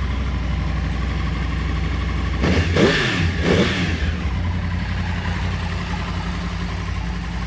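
2012 Yamaha R1's crossplane inline-four engine idling steadily, blipped twice in quick succession about two and a half seconds in, the revs rising and falling each time before it settles back to idle.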